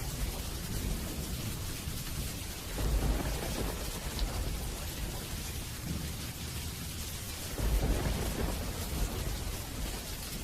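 Steady rain with rolling thunder: two low rumbles swell and fade, about three seconds in and again near eight seconds.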